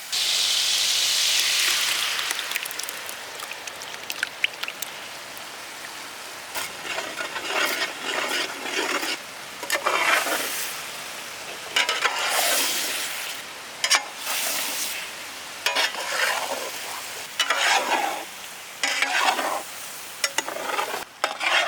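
Egg poured into shredded chicken frying in masala, a loud sizzle at first, then a spatula stirring and scraping through the pan in short strokes about every second while it keeps frying.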